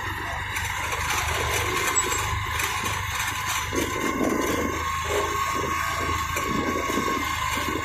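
Motorcycle tricycle engine running steadily as it drives along a street, heard from inside the sidecar, with road noise.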